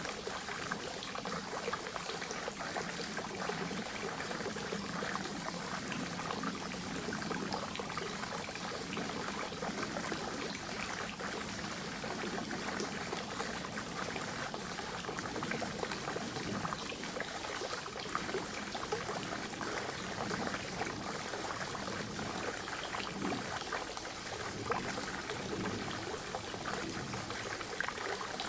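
Forest spring water trickling steadily, a continuous run of small splashes and gurgles.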